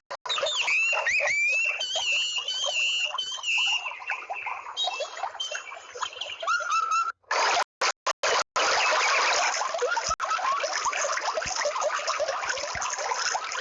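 Animal calls: a wavering high call over rapid clicks and chatter, then, after a few brief cut-outs, a dense mass of many overlapping calls.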